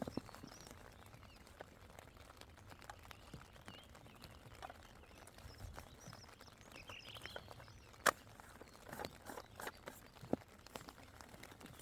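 Small clicks, knocks and rustles of coffee-making gear being handled and put together by hand, with one sharp click about eight seconds in and a few more knocks just after.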